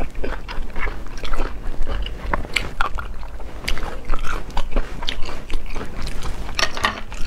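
Close-miked biting and chewing of cooked snail meat: an irregular run of short, wet clicks and crunches.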